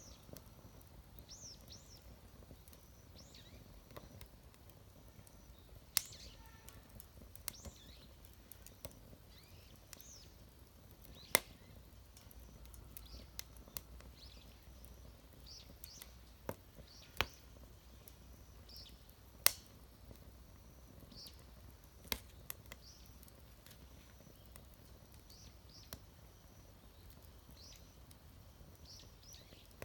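Wood fire crackling: sharp, irregular pops a few seconds apart, with small birds chirping faintly in the background.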